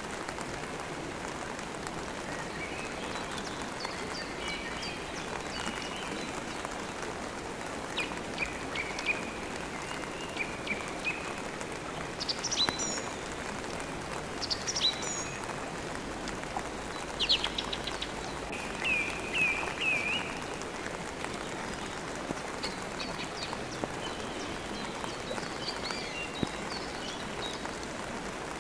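Steady rain, with small birds chirping and twittering over it in short high calls that come thickest in the middle stretch.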